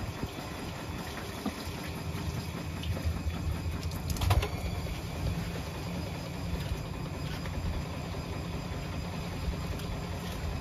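Bosch washing machine running a wash: a steady low rumble and hum from the motor and turning drum, with a brief sharp knock about four seconds in.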